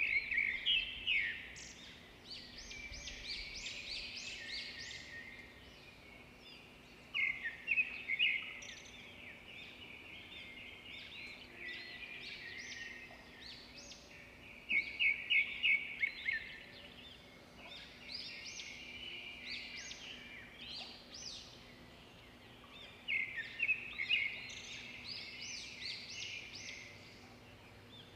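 Songbirds singing: bouts of rapid, high chirping notes that come about every seven seconds, over a faint steady outdoor background.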